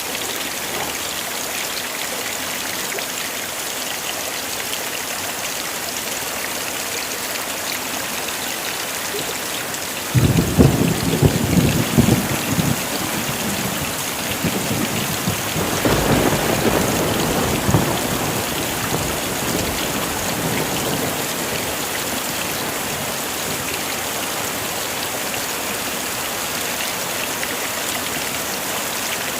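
Heavy rain falling steadily. About ten seconds in, a sudden crack of thunder rumbles for a few seconds, and a second roll of thunder follows a few seconds later and fades out.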